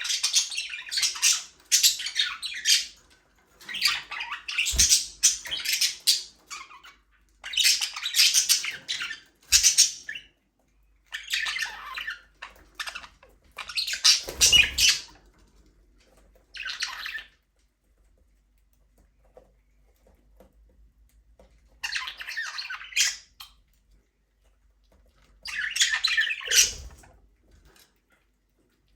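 Budgerigars chattering and squawking in bursts of a few seconds at a time, with short quiet pauses between them.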